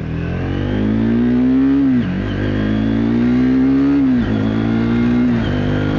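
Triumph Speed 400's single-cylinder engine accelerating hard from a pull-away, its pitch climbing and then dropping three times at the upshifts, about two seconds apart.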